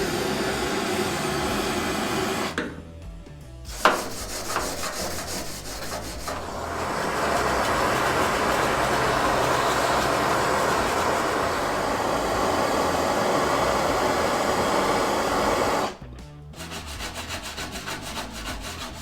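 Abrasive tool working over rusty sheet-steel sill panel: a rough, steady scraping, interrupted briefly near the start with a sharp click. It then runs louder and steadily for several seconds before dropping off abruptly into quicker, lighter strokes near the end.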